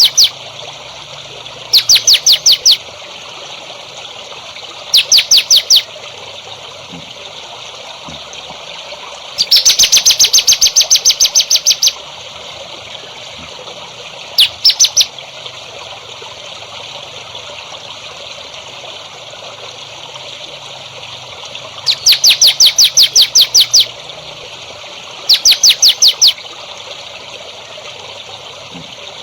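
A songbird sings six bursts of rapid, evenly repeated high notes, each one to two and a half seconds long and separated by pauses. The longest burst comes about ten seconds in. A steady hiss runs underneath.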